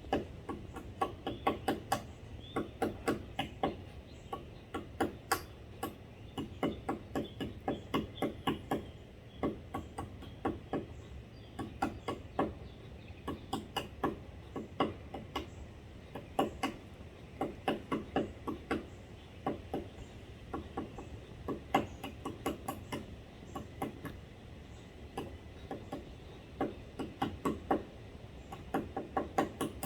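Woodpeckers pecking at wood while foraging: irregular runs of quick, sharp taps in short groups.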